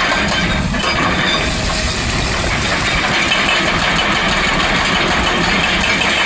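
Excavator at work: its engine runs steadily under a dense, continuous mechanical clatter, with no let-up.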